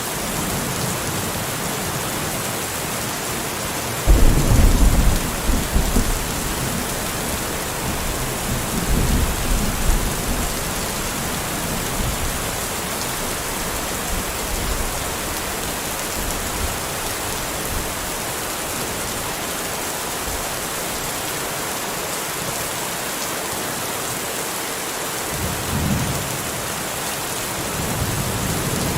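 Steady rain with thunder. A loud rumble starts suddenly about four seconds in, a weaker one follows a few seconds later, and softer rumbles come near the end.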